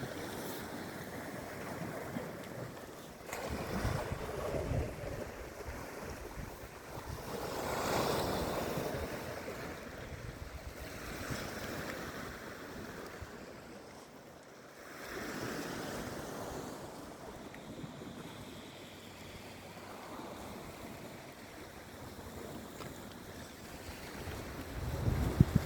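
Sea waves washing in and surging back, swelling several times, with wind buffeting the microphone.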